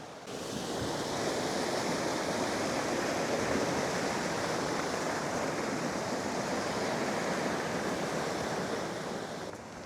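Rushing water, a steady even noise, fading in at the start and out near the end.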